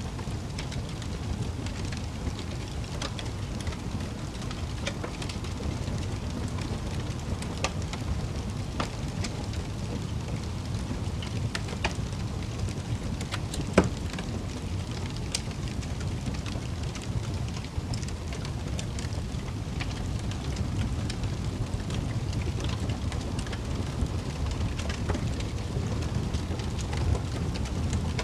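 Fireplace fire crackling over a steady low rumble of flames, with scattered sharp pops and one louder pop about 14 seconds in.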